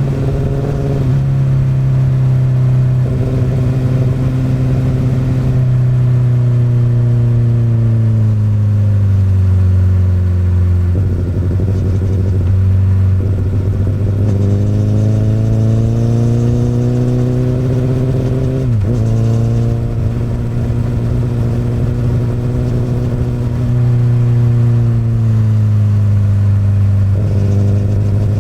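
2008 Honda CBR1000RR inline-four running through an Akrapovic exhaust under way. The revs sink slowly for several seconds, then climb under throttle about halfway in. Near two-thirds in there is a brief sharp dip in revs, then they hold fairly steady.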